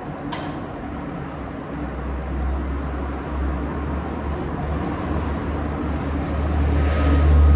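Coin-operated washing machine starting its drum-cleaning cycle: a sharp click, then a low motor rumble that builds as the drum begins turning.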